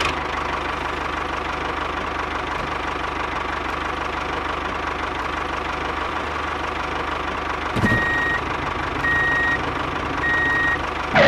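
Tractor diesel engine sound running steadily at idle, with three evenly spaced reversing beeps in the last few seconds as the toy tractor backs up.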